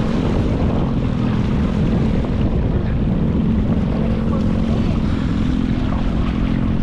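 Motorboat engine running steadily under way through rough water, with a constant droning tone over wind and water noise.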